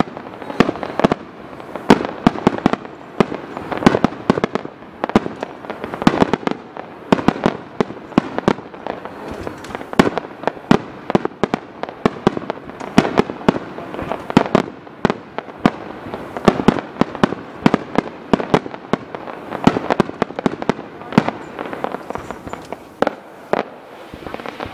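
Aerial fireworks bursting in a rapid, continuous barrage: sharp bangs follow one another several times a second, some close together and some spaced out.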